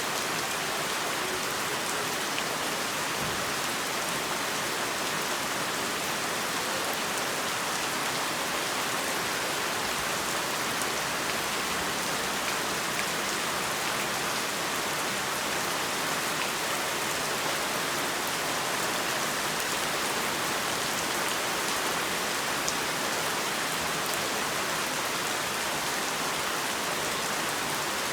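Heavy rain falling steadily on a surface, a constant dense patter without let-up.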